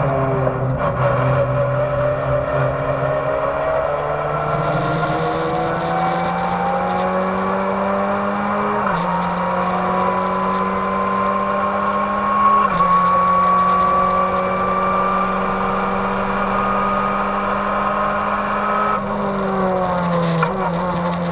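Race car engine heard from inside the cabin, revving up under hard acceleration. It shifts up twice, about nine and thirteen seconds in, with the pitch dropping at each shift and climbing again. Near the end the revs fall as the throttle is lifted.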